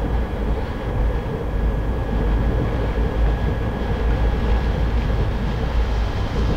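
Passenger train running, a steady heavy rumble of the moving coach heard from inside, with a faint steady high whine.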